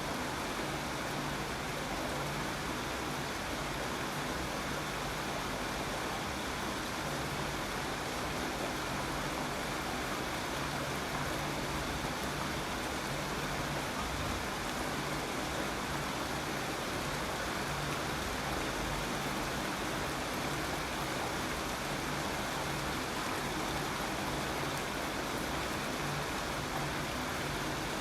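Steady rain falling, an even hiss of many drops with no breaks or single events.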